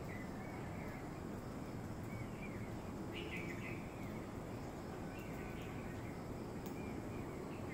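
Small birds chirping, short calls every second or two, over a steady low outdoor background noise.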